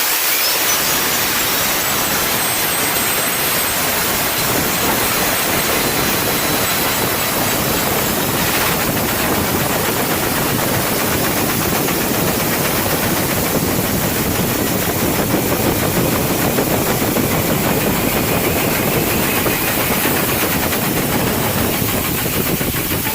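Spinning air-jet dryer-vent cleaning nozzle blasting compressed air: a loud, steady rushing hiss of high-pressure air that keeps on without a break.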